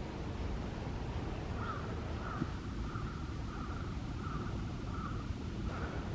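A crow cawing in a steady series of short caws, about one and a half a second, starting about a second and a half in, over a constant low rumble of wind on the microphone.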